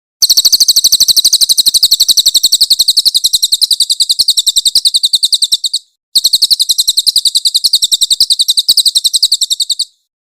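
Crested jay (cililin) giving its loud, shrill rattling call: a fast run of high notes, about ten a second, lasting over five seconds, then after a brief break a second run of about four seconds.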